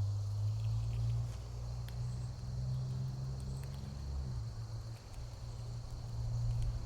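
Steady high insect chirring, like crickets, over a louder low steady hum, with a few faint ticks.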